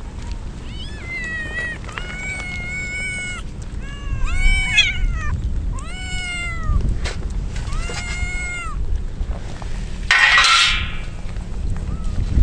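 Kittens meowing, about five high-pitched cries that rise and fall, over a steady low rumble. A short noisy rush comes near the end.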